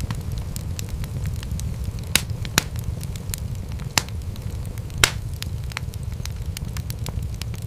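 Wood fire crackling in a fireplace: a steady low rumble of flames under frequent small pops and snaps, with a few louder pops around the middle.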